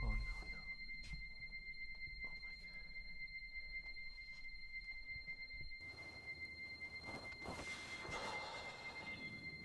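A steady high-pitched ringing tone from the film's sound design, held over a faint low rumble. About six seconds in, the rumble gives way to a hissy outdoor ambience while the tone carries on.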